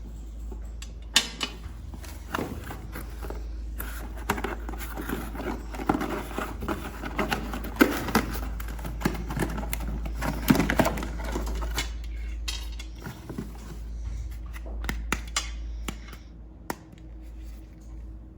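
Plastic toy parts and packaging being handled on a table: irregular clicks, clatter and rustling, busiest in the first two-thirds and thinning out near the end, over a steady low hum.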